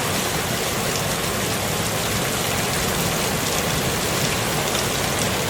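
Steady, dense storm noise: an even rushing hiss with a low rumble beneath, with no distinct events.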